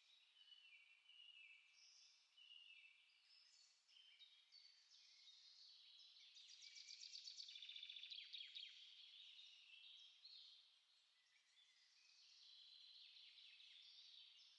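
Several small songbirds faintly chirping and singing, their high notes overlapping; a fast trill about six to nine seconds in is the loudest part.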